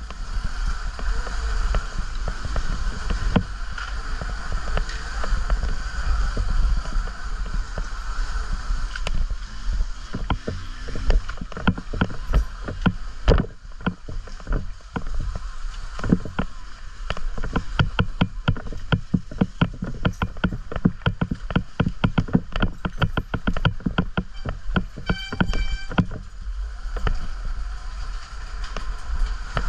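Riding a dirt bike over rough, muddy trail: wind rumbling on the bike-mounted microphone, a steady whine, and a dense run of knocks and rattles as the bike bounces over the ground, thickest from about a third of the way in. A brief high tone sounds once near the end.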